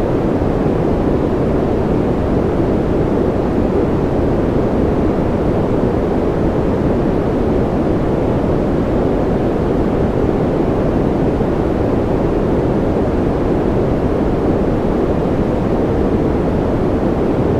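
Steady, unchanging rushing noise played as a sleep and concentration noise track, deep rather than hissy, with most of its weight in the low and lower-middle range.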